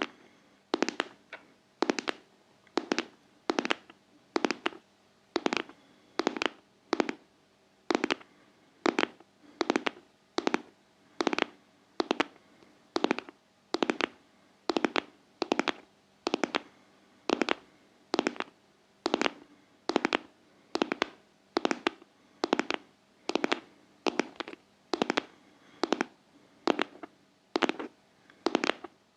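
Sharp ASMR taps on a heart-shaped object in an even, steady rhythm of about three taps every two seconds.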